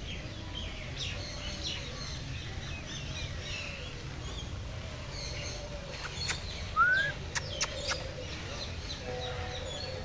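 Birds chirping and calling throughout over a low steady rumble, with a few sharp clicks between about six and eight seconds in.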